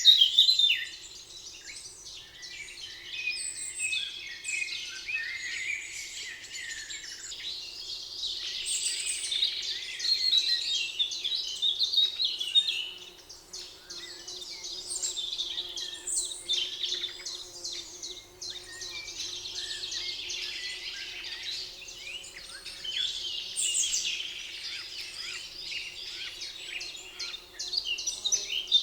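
Several songbirds singing at once, overlapping chirps and trills, loudest in the first second, over a faint steady low hum.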